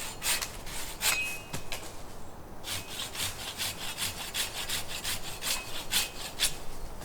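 Hand saw cutting through wood in quick back-and-forth strokes, about three a second, with a short pause about two seconds in.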